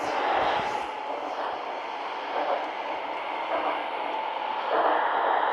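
Seoul Metro Line 2 subway train running between stations, heard from inside the car: a steady rumble of wheels on rail that grows louder near the end.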